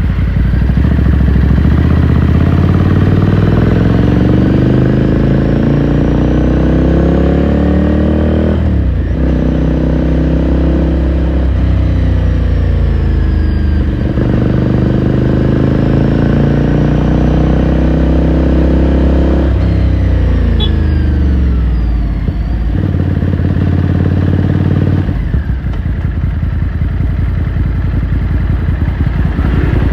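Ducati Scrambler Sixty2's air-cooled L-twin engine and exhaust under way. The pitch climbs with the revs and drops sharply three times as it shifts up, then runs lower and steadier before climbing again near the end.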